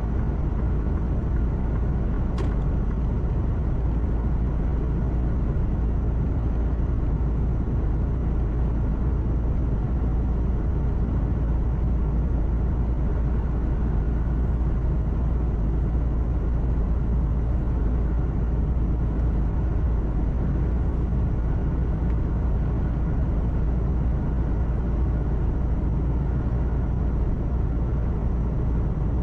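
Steady low rumble of a truck's engine and road noise heard from inside the cab at an even cruise, with one short click about two seconds in.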